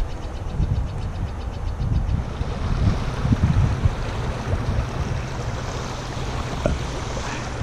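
Wind buffeting the microphone in uneven gusts over a steady rushing hiss of river water. A faint, fast, high ticking runs through the first two seconds.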